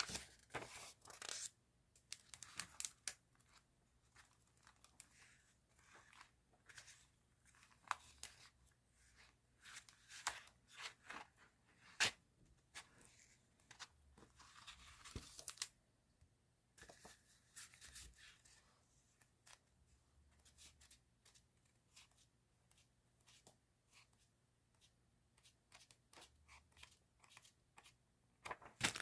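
Faint, intermittent rustling, crinkling and tearing of paper and plastic stationery being handled, such as stickers and their packaging, with scattered small taps and clicks and a longer rustle about halfway through.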